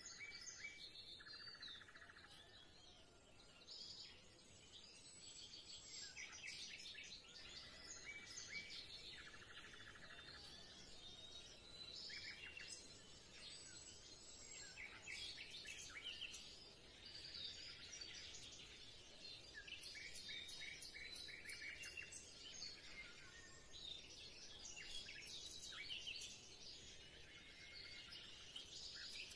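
Quiet birdsong: several small birds chirping, with short rapid trills recurring every few seconds.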